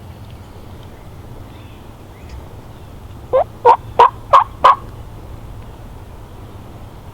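Turkey yelping: a series of five quick, loud notes, each rising in pitch, about three a second, a little past the middle.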